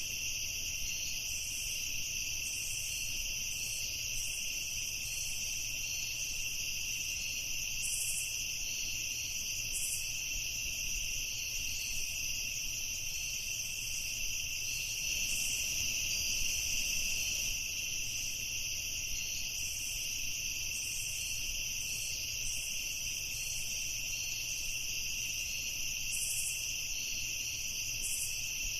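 Night chorus of crickets trilling continuously at two steady high pitches, with short, higher insect chirps coming and going every second or two over a faint low rumble.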